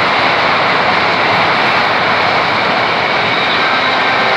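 Passenger train passing the level crossing at speed close by: a loud, steady rush of wheels on rails that stays even throughout.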